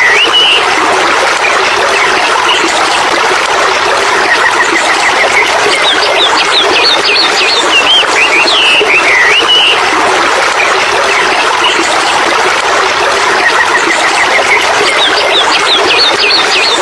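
Birds chirping and trilling over a steady, loud rushing hiss. The same run of bird calls comes back about every eight to nine seconds, as in a looped nature-sound recording.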